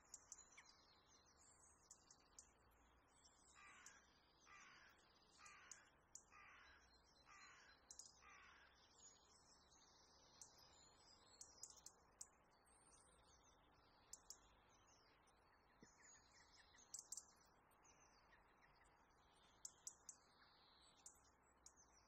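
Faint bird calls: a run of six calls about a second apart, starting a few seconds in, with higher, shorter chirps scattered throughout.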